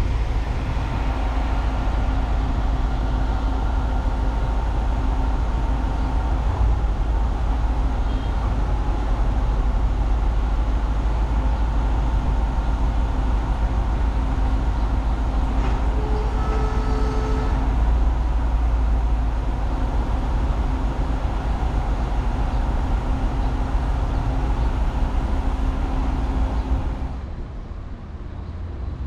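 Steady rumble and hum of a railway track-maintenance vehicle's diesel engine running. A brief short tone sounds about two-thirds of the way in. The sound drops abruptly near the end.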